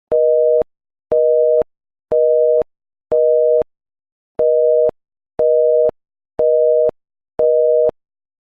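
Telephone busy signal: a two-tone beep, each about half a second long, repeating about once a second. There are eight beeps in two groups of four, with a slightly longer pause between the groups.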